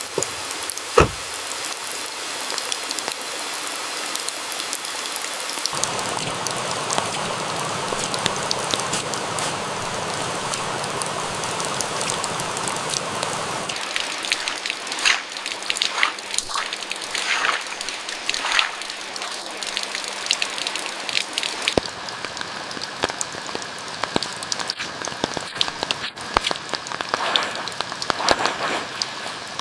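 Steady rain falling, its sound changing abruptly about 6, 14 and 22 seconds in, with a run of sharp crackles and drips in the middle stretch.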